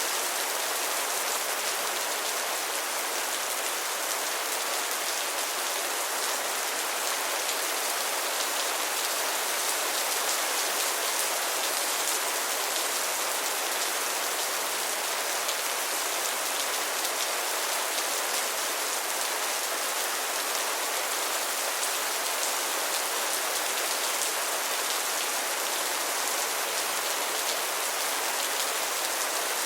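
Heavy rain falling steadily, an even hiss of many drops spattering on surfaces, with no let-up.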